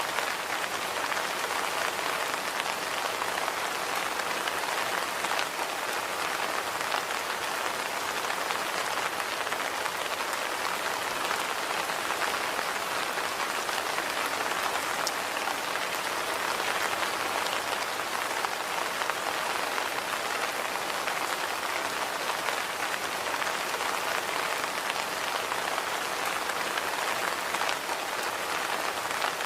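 Steady rain falling, an even, unbroken hiss of many drops that neither builds nor eases.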